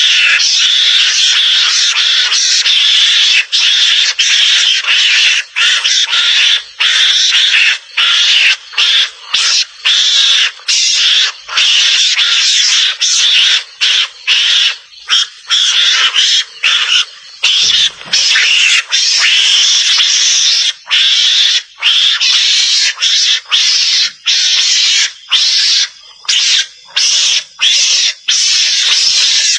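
Recorded mongoose (garangan) calls of the kind played as a hunting lure: a loud, harsh, high screeching chatter, almost unbroken, with short gaps every second or so.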